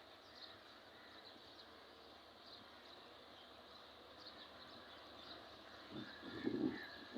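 Faint outdoor ambience with small birds chirping repeatedly, and a brief louder noise about six seconds in.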